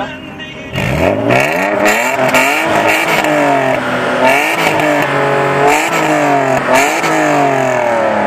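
BMW straight-six with an aftermarket sport exhaust idling, then revved in repeated blips from about a second in, the pitch climbing and dropping back about once a second.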